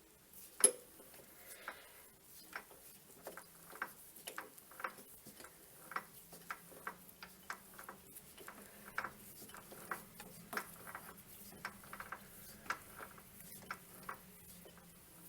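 Lathe at work: a sharp metallic click near the start, then light metallic ticks about twice a second over a faint steady motor hum.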